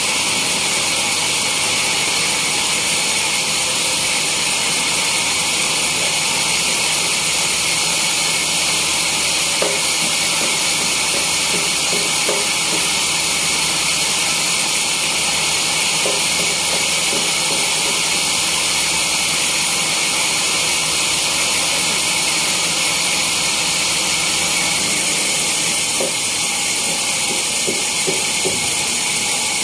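Sawmill saw running without a break: a loud, steady, even high-pitched hiss.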